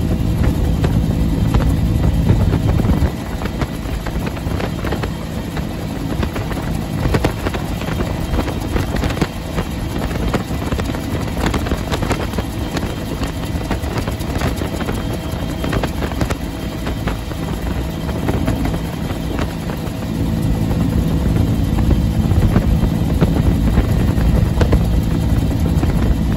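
Bell UH-1 Huey helicopter in flight: its engine and the rapid, steady beat of its two-blade main rotor, with wind noise. It gets a little quieter about three seconds in and louder again near the end.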